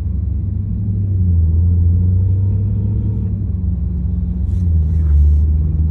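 Deep, steady engine rumble of a Dodge Charger Scat Pack's 6.4-litre HEMI V8, heard from inside the cabin at low speed, swelling slightly about a second in and again near the end.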